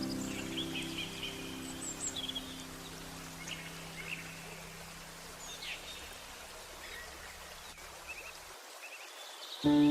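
Small birds chirping and twittering in short scattered calls over a steady rush of flowing water. Soft held music notes underneath fade out, and louder music comes back in just before the end.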